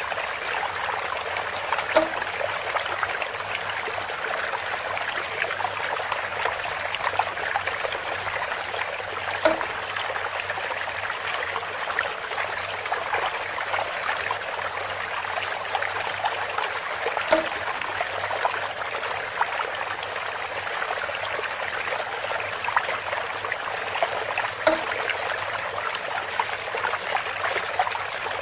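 Water trickling steadily through a bamboo spout. A short hollow-toned knock comes back about every seven and a half seconds, four times.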